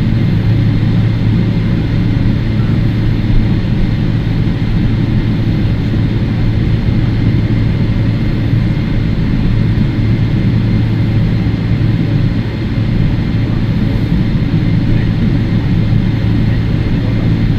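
Cabin noise of a Boeing 777-300ER taxiing, its GE90-115B engines running steadily: a constant low hum with a broad rumble, with no rise in pitch or level.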